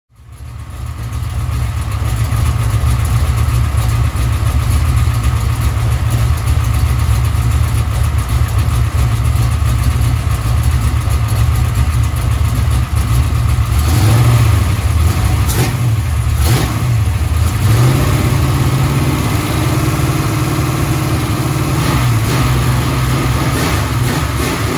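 Chevrolet LT1 383 small-block V8 running on an engine test stand with Holley Terminator X fuel injection: a steady low rumble that fades in at the start. A few sharp cracks stand out around the middle, and the engine note shifts slightly in pitch after them.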